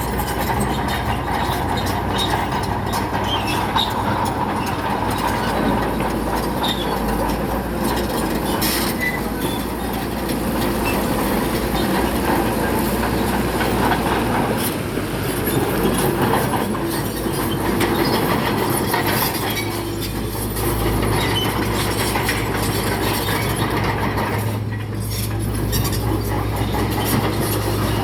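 Crawler bulldozer working: its diesel engine runs steadily under load while the steel tracks clank and rattle and stone scrapes and grinds against the blade.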